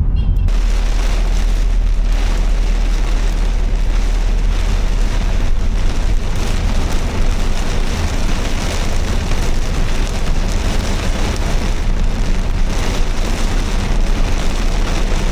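Car driving in the rain: a steady low road and engine rumble under an even hiss of rain and wet tyres, which sets in suddenly about half a second in.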